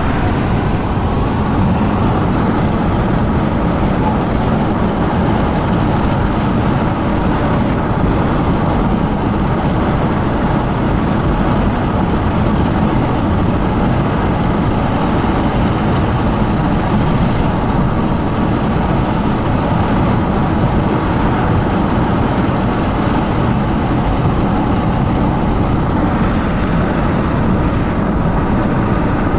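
A car driving at speed: a steady, even rush of road and wind noise with no break or change.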